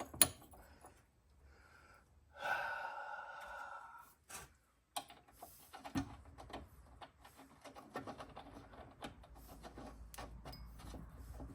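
Quiet hand-handling of small mower parts: scattered light clicks and taps. About two seconds in there is a steady pitched tone lasting about a second and a half.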